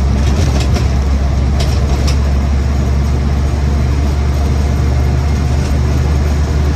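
Land Rover Series 1 88-inch's 2-litre petrol engine and drivetrain running steadily on the move, a loud low drone heard from inside the cab. A few light rattling clicks come through in the first couple of seconds and once more later on.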